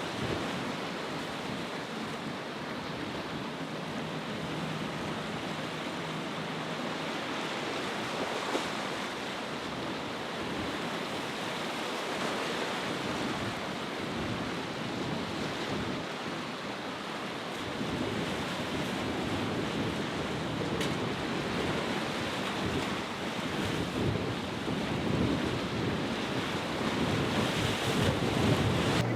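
Ocean waves breaking and rushing in a rough inlet, with wind buffeting the microphone; the surf grows louder in the second half.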